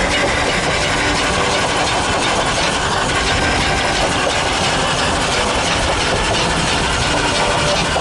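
Steam train of the Oigawa Railway's C10 8 locomotive running close by: a loud, steady mechanical clatter and rattle of the train on the rails.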